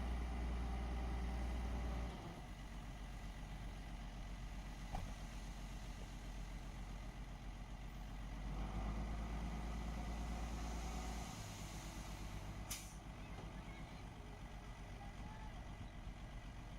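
Diesel engine of heavy earth-moving equipment running, dropping to a lower, quieter note about two seconds in and rising again for a few seconds midway. A short sharp hiss cuts in about three-quarters of the way through.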